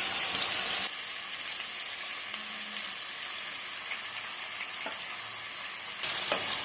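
Yogurt-marinated chicken sizzling in hot butter in a kadai. The sizzle is louder for the first second, drops back, and rises again near the end.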